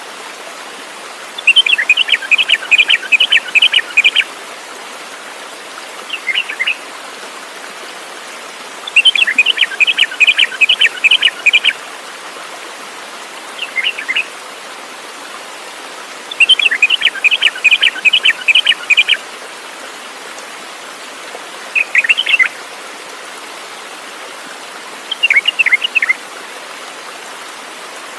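A bird singing: three long, fast trilled phrases of a couple of seconds each, with short chirps in between, repeating at regular intervals over a steady rushing background like running water.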